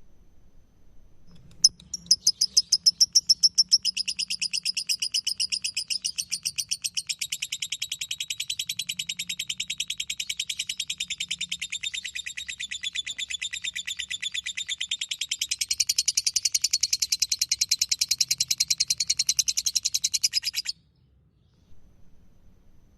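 Lovebird 'ngekek': one long, unbroken run of rapid, evenly repeated shrill chirps. It starts sharply about two seconds in, goes on for nearly twenty seconds and cuts off suddenly.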